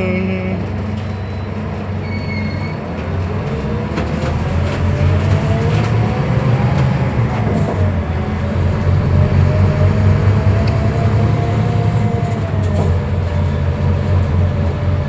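Cabin sound of a Scania K320UB hybrid bus pulling away and running along: a low drivetrain rumble under a whine that rises in pitch as the bus speeds up, eases, then rises again before dropping near the end. A short high beep sounds about two seconds in.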